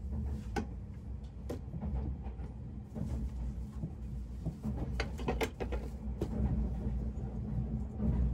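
Low steady rumble of the SPACIA X limited express train running, heard from a seat inside the car. Light clicks and knocks come from a seatback tray table being folded up and stowed in the first second or two, and a quick cluster of sharper clicks follows about five seconds in.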